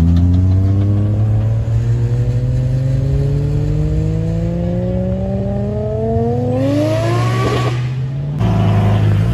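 A performance car's engine accelerating hard in one long pull, its pitch rising steadily for about eight seconds. It then breaks off abruptly and settles back to a lower, steady note.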